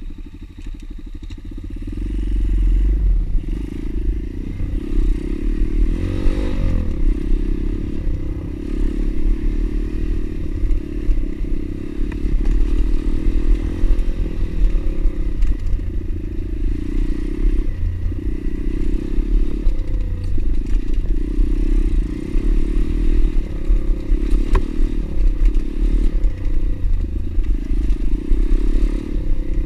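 Single-cylinder pit bike engine running steadily while being ridden, getting louder about two seconds in.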